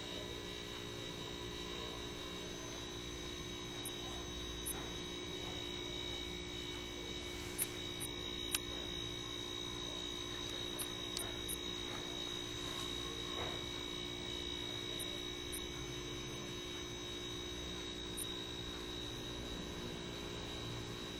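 A steady hum with a few light clicks about eight seconds in.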